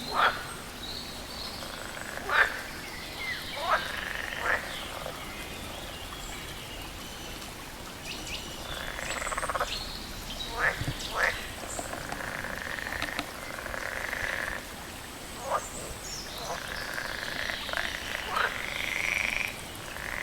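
Frogs calling: short, sharp croaks every second or so, mixed with longer rattling calls that grow denser in the second half, over a steady hiss of running water.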